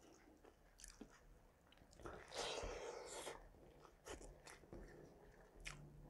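Faint chewing and mouth clicks of a man eating chicken pulao with his fingers, with a louder noisy stretch of about a second a little past two seconds in.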